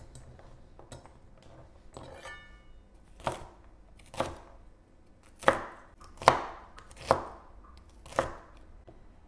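A knife chopping on a cutting board: six slow, separate chops at roughly one-second intervals.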